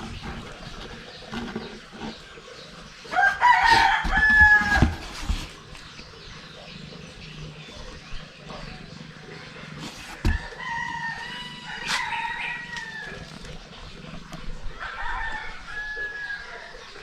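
Three long, drawn-out animal calls, each about two seconds, with the first the loudest.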